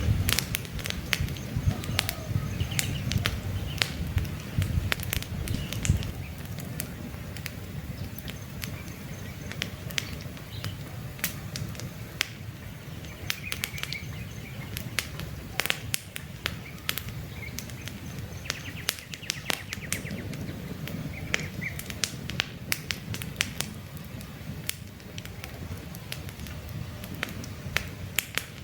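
Wood campfire crackling, with frequent sharp pops and snaps over a low rumble of the flames that is stronger in the first few seconds. Faint bird chirps come through now and then.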